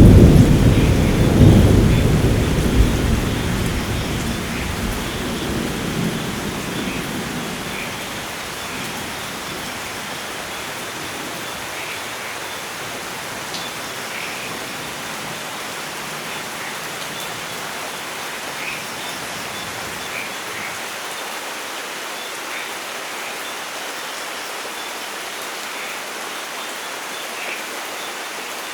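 A thunder rumble over steady rain, loud at first and dying away over about eight seconds, leaving the even hiss of rain falling alone.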